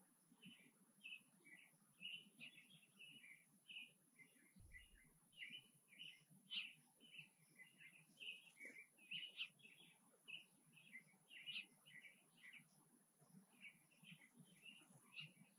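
Small birds chirping faintly: a long run of short, high chirps, several a second, with no break.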